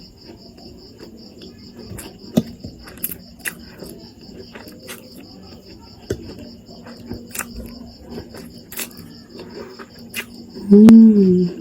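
Close-miked eating of spicy instant noodles: scattered short wet clicks and smacks of chewing and slurping. Behind it, a cricket's steady pulsing chirp, and near the end a short rising-and-falling hummed 'mm', the loudest sound.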